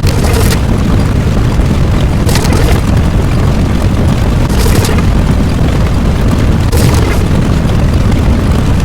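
Loud, continuous low rumble of an explosion-type sound effect, with a brighter hissing burst about every two seconds. It cuts off suddenly at the end.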